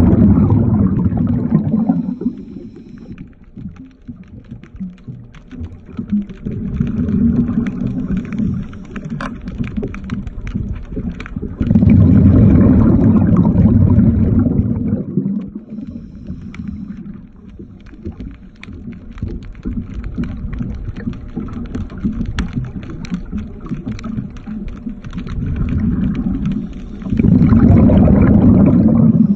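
Underwater exhaled air bubbles from a diver's regulator, rumbling and gurgling in loud surges every several seconds, with faint clicks and taps between the breaths.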